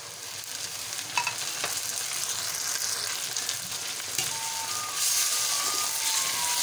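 Chopped tomatoes and onions sizzling in hot oil in a metal karahi, with a slotted metal spatula scraping and clicking against the pan as it stirs. The sizzle grows louder about five seconds in as the stirring gets going.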